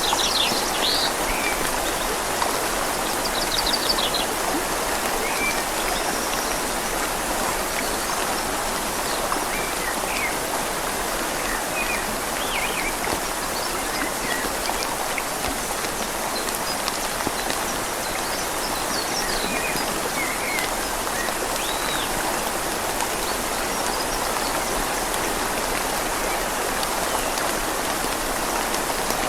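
Steady rain falling on leaves over a flowing river, making a continuous even hiss of water. A few short, high bird chirps come and go through it.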